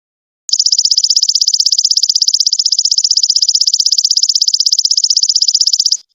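Golden locust (belalang emas) calling: a loud, high, rapidly pulsing buzzing trill. It starts about half a second in and cuts off abruptly near the end.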